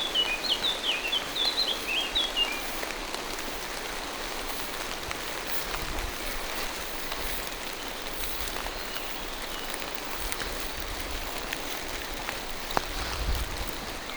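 Steady rain falling through forest trees, with a bird giving a quick run of high chirps during the first two seconds or so.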